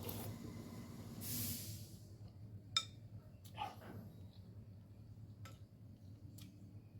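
Faint eating sounds over a bowl of noodle soup: a short breathy hiss about a second in, a utensil clinking sharply against the bowl near three seconds in, then small scattered clicks.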